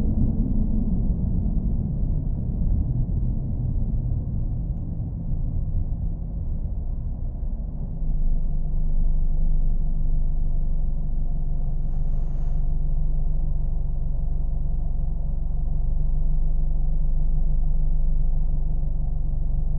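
A car engine's steady low running rumble, easing over the first few seconds, then stepping up a little and settling into an even hum about eight seconds in. A short high hiss comes about twelve seconds in.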